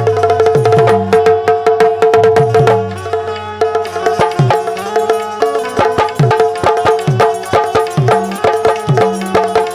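Instrumental Bundeli folk music: a hand drum plays a quick rhythm with bass strokes that bend down in pitch, over a steady held note.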